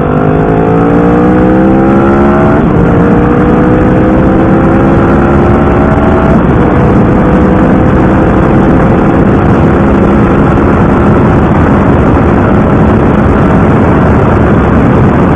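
Motorcycle engine accelerating hard through the gears: its pitch climbs, drops at a gear change about two and a half seconds in and again about six seconds in, then holds steady at speed under a loud rushing noise.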